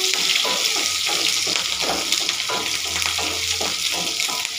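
Shallots and dried red chillies sizzling in sesame oil in a frying pan, a steady hiss, with a wooden spatula stirring them through it.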